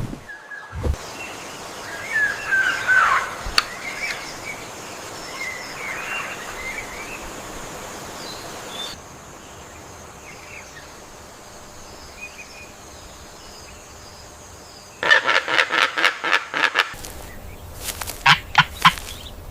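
AI-generated rainforest ambience: a steady forest hiss with scattered bird calls, some of them gliding whistles. About three-quarters of the way through, a bird gives a fast run of clipped repeated notes for about two seconds, followed by a few more sharp calls.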